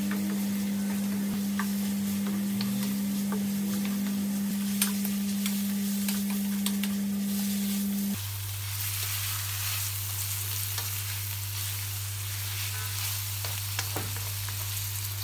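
Chicken pieces and sliced onion sizzling in hot oil in a wok, frying until light brown, stirred and scraped with a wooden spoon and then a slotted spatula, with scattered clicks of the utensil against the pan. A steady low hum runs underneath and drops to a lower hum a little over halfway through.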